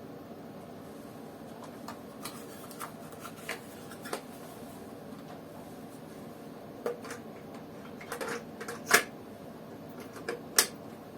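Scattered sharp clicks and knocks, irregular and growing louder in the second half, over a steady low hum and hiss; no music is playing.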